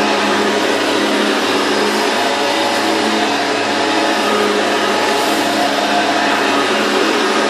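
Hoover Elite II U4617 upright vacuum cleaner running steadily on its 5 amp motor: an even motor hum with a steady pitch over airflow hiss.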